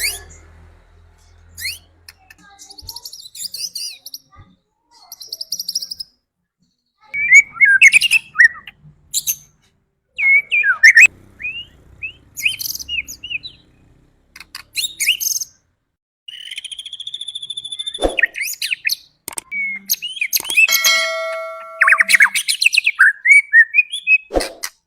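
White-rumped shama (murai batu) singing a varied song of short whistled phrases, sweeping notes, rattles and buzzy trills, with short pauses between phrases. This is the kind of song played as a lure to provoke a caged shama into singing.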